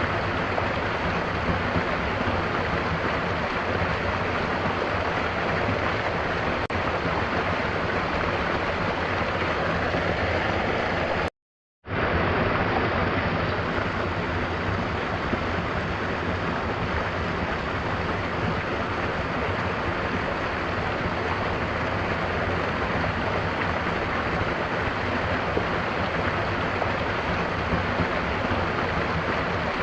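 Mountain waterfall rushing steadily, with a brief cut to silence about eleven seconds in.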